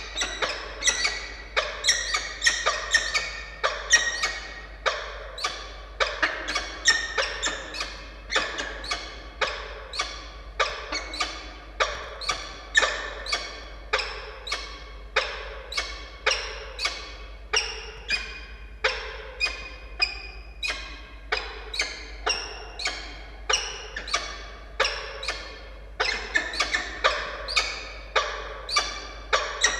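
Peregrine falcon calling over and over, about two sharp, ringing calls a second, the ee-chup calling of a pair bonding.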